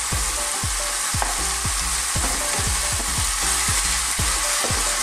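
Minced chicken and green bell pepper sautéing in a pan: a steady sizzle, with a wooden spoon stirring and scraping against the pan about three strokes a second.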